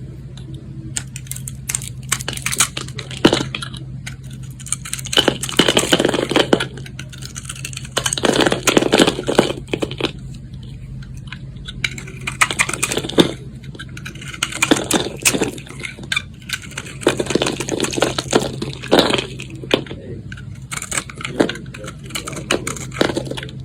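A knife cutting through a bar of soap into cubes, with crisp crackling, crunching strokes in bursts of a second or two, repeated many times over a steady low hum.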